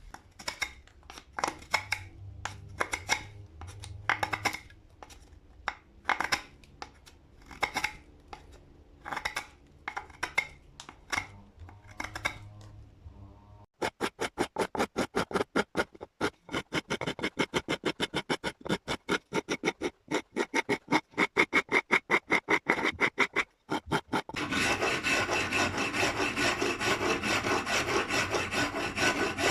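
Hand rasping strokes, irregular and spaced at first. About halfway through they turn quick and regular, about four a second. Near the end they merge into a continuous rasping noise.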